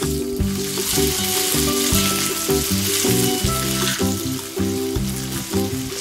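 Chicken pieces sizzling in hot oil with garlic and ginger in a non-stick wok as they are stirred with a silicone spatula; the sizzle is loudest at first and eases after about four seconds. Background music plays underneath.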